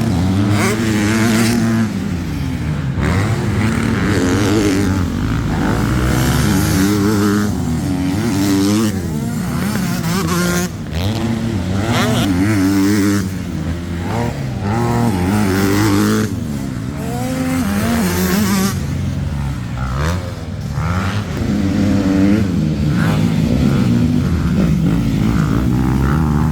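Motocross motorcycles racing: several engines revving hard at once, their pitch climbing and dropping over and over as they accelerate and shift gears.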